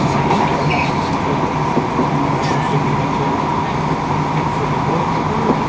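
Passenger train running along the line, heard from inside the carriage: a steady rumble with a faint high whine.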